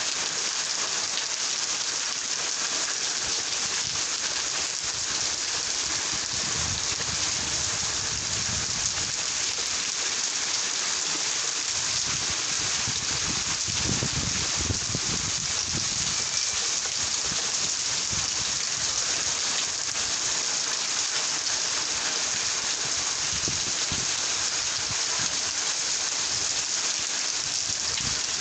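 Steady rain falling on surfaces, a dense, even hiss, with low rumbles swelling up a few times underneath.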